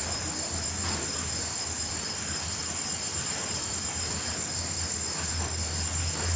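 Night insect chorus of crickets: steady, continuous high-pitched trilling, over a steady low hum.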